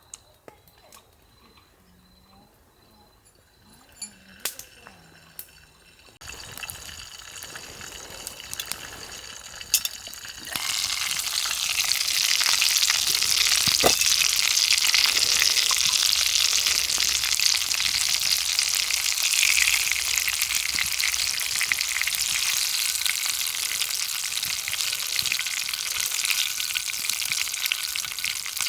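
Food sizzling in a hot frying pan on a campfire, starting suddenly and loudly about a third of the way in as the food goes into the pan, after a few light clicks and knocks.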